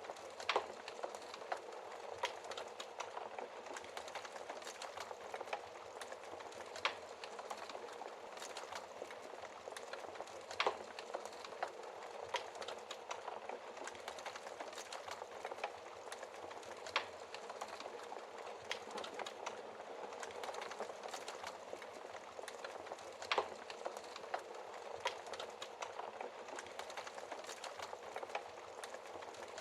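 Wood fire burning in a fireplace: a steady bed of crackling with sharp pops every few seconds, a few of them louder.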